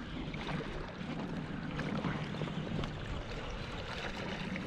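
Water gently splashing and lapping around a kayak, a steady low wash with a few faint ticks.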